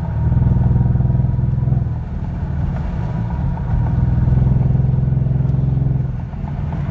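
Kia Stinger's turbocharged engine revved twice under the gas pedal, each rev held for about two seconds before dropping back to idle. The owner suspects a boost leak from intercooler piping that has come off.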